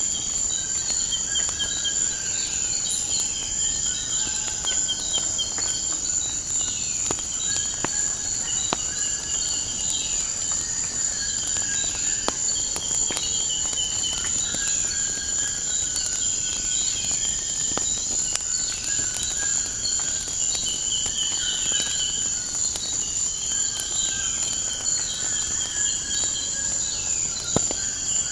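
A steady high-pitched insect chorus of crickets, with repeated short chirping trills over it, and the scattered sharp pops and crackles of a wood fire burning.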